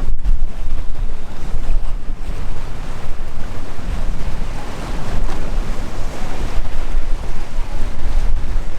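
Waves washing and breaking, with strong wind buffeting the microphone in gusty low rumbles.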